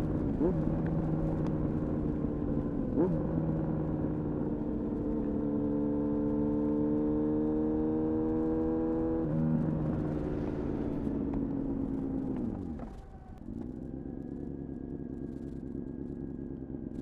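Honda CBR-929RR Fireblade's inline-four running through an Erion full racing exhaust while riding. The revs jump and settle twice early on, climb slowly for several seconds, step down once, then fall steeply as the throttle closes about three-quarters through and settle to a quieter steady idle.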